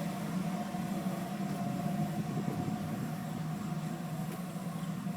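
Steady low mechanical hum with a faint held tone above it, unchanging throughout.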